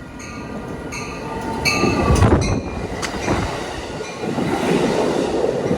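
Amtrak passenger train approaching and running past on the tracks: high, steady wheel squeal tones fade out over the first couple of seconds while the rumble of the train builds, loudest about two seconds in and staying heavy after.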